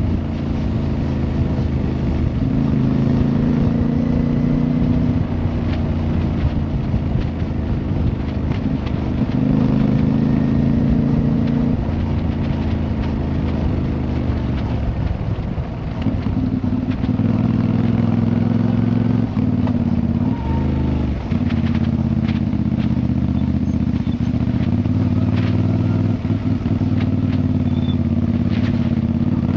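Motorcycle engine running under way, its note shifting up and down in steps several times, with brief dips a little past halfway.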